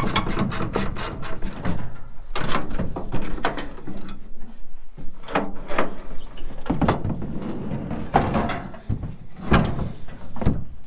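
Hand tools being handled while fetching a socket: irregular clicks and knocks, with a quick even run of clicks at the start.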